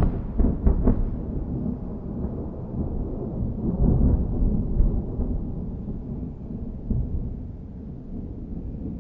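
Thunder rumbling and rolling after a close clap, loudest at the start and slowly fading, with further swells of rumble about four and five seconds in.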